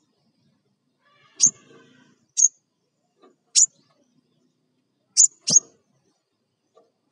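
Crimson sunbird (sepah raja) giving short, sharp, very high chip calls, about five of them at irregular intervals, the last two in quick succession. A faint low knock comes with two of the calls.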